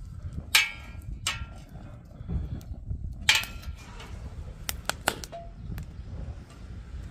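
Pork belly grilling over a wood fire: a low steady rumble with about half a dozen sharp, irregular clicks and clinks.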